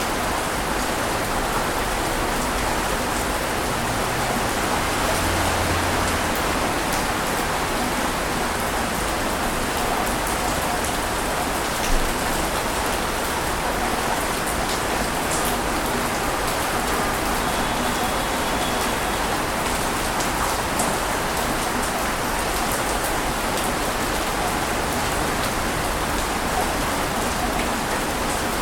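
Ocean waves breaking on a beach, heard as a steady, even rush of water noise without distinct swells, with one brief sharp click about twelve seconds in.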